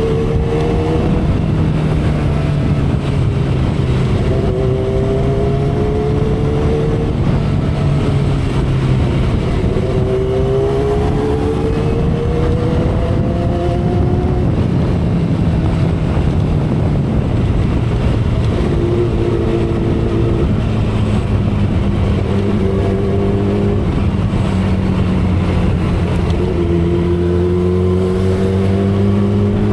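2012 Kawasaki Ninja ZX-10R's inline-four engine running at expressway speed under wind rush, its note climbing in pitch in stretches of a few seconds, several times over.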